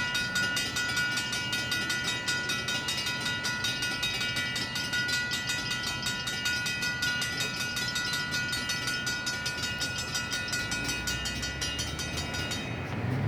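Railroad crossing mechanical bells, a Safetran bell close by with a Griswold bell across the crossing, ringing with rapid even strokes, then cutting off suddenly near the end as the crossing activation cancels.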